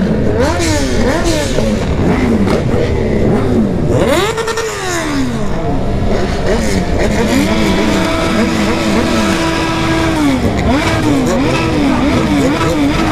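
Remapped sport motorcycle engines revving over and over, the pitch sweeping up and falling back in quick blips. About four seconds in one rev falls away in a long slide, and later in the middle one engine holds a steady high pitch for a couple of seconds before the blipping resumes.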